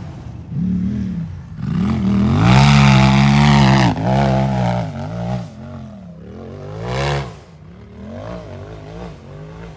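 Unlimited-class race UTV engine revving hard in repeated throttle surges, the pitch swinging up and down. The loudest surge comes about two to four seconds in, with a short sharp rev about seven seconds in before it drops lower.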